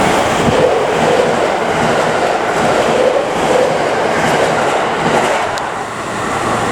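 JR West 681/683-series limited express electric train running close by, a steady loud rumble of wheels on rail that eases slightly near the end.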